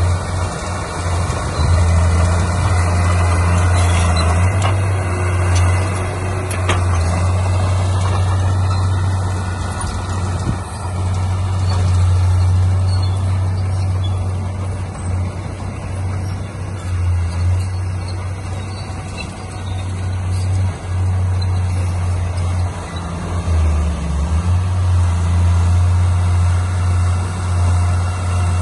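Heavy construction machine's diesel engine running, a steady low drone that wavers and dips briefly now and then.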